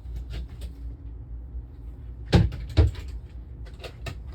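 Two sharp knocks about half a second apart, a cabinet or door being opened and shut, followed by a few lighter clicks near the end, over a steady low hum.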